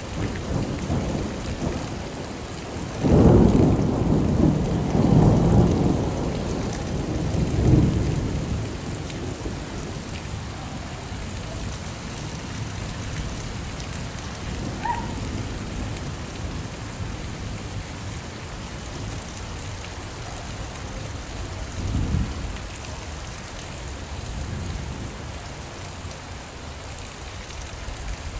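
Steady rain falling, with thunder rumbling low and heavy for several seconds near the start and once more, briefly, about three quarters of the way through.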